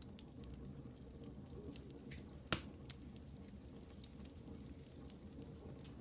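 Wood fire burning in a fireplace: a low steady rumble with sparse small crackles and one sharper pop about two and a half seconds in.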